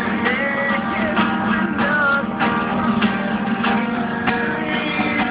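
Music led by a strummed guitar, with steady strums and other sustained instrument notes.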